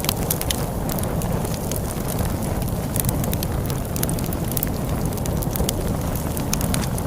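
Log fire crackling with many irregular sharp pops and snaps over a steady low rumble of storm wind.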